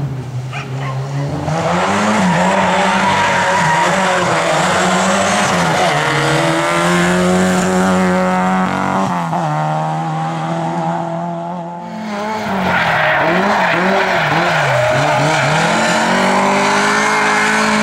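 Lada race car engines running hard on track, the pitch climbing and dropping again and again as the cars rev, shift gears and brake, with a noisy hiss over the top. The engine sound sinks and wavers about ten seconds in, then comes back at full revs near twelve seconds.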